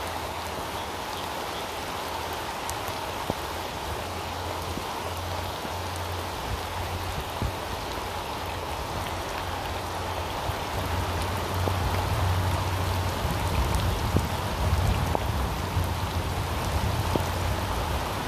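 Steady rain falling, with scattered sharp drop hits standing out from the even hiss. A low rumble builds in the second half, so it grows slightly louder toward the end.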